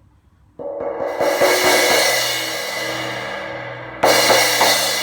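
Cracked Zildjian 17-inch K Custom Hybrid crash cymbal struck a few times in quick succession and left to ring and fade, then crashed hard again about four seconds in. The crack gives it a sound called 'a little bit nervous'.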